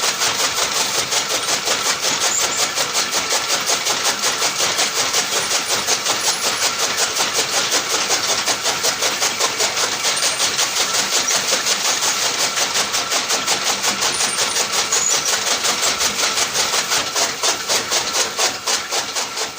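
Small motor of a DIY model mini tractor running steadily, with a rapid, even clatter and little low rumble.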